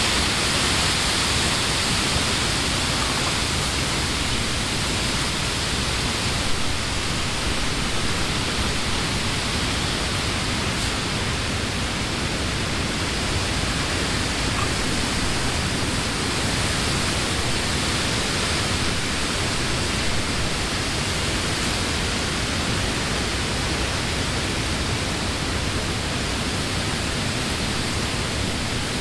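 Wind blowing through leafy trees: a steady, even rushing of leaves, a little stronger in the first few seconds and then settling.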